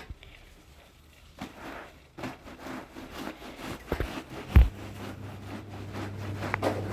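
Scattered knocks, scrapes and rustles of objects being handled, with one loud dull thump about four and a half seconds in, and a low steady hum that comes back after it.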